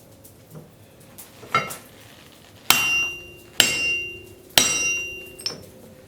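Blacksmith's hammer striking a railroad spike on the anvil. One lighter tap is followed by three heavy blows about a second apart, each leaving a ringing tone that fades.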